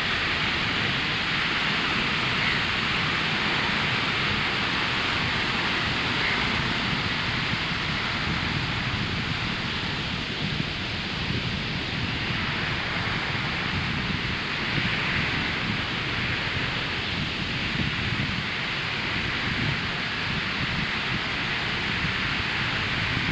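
Surf breaking on a sandy beach: a steady wash of waves with slow swells in loudness.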